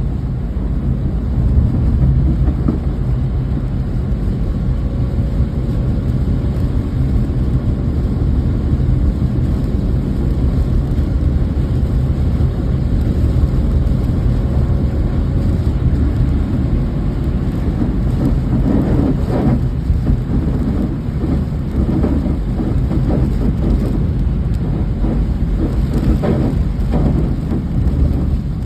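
Steady rain with a heavy, continuous low rumble underneath, and some crackly patter from about two-thirds of the way in.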